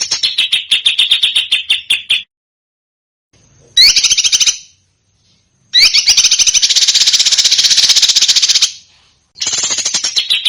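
Recorded songbird song of the rapid-fire 'tembakan' type used to tutor caged songbirds: fast repeated harsh notes, about ten a second. It comes in four bursts with abrupt silent gaps between them, the longest burst lasting about three seconds.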